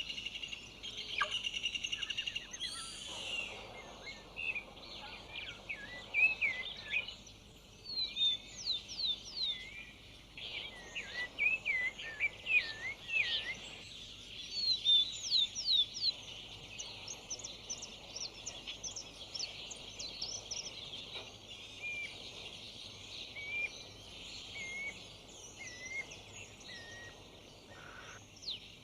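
Woodland dawn chorus: several birds singing at once, a fast trill in the first few seconds and then many short whistled chirps and sweeping notes overlapping.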